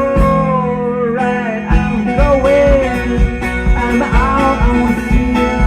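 Live band music: a long, bending melody line held over guitar and a steady kick-drum beat of about two a second.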